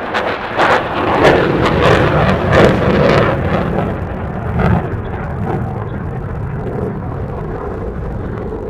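An aircraft passing over with a loud, crackling engine roar that eases into a steadier rumble after about four seconds.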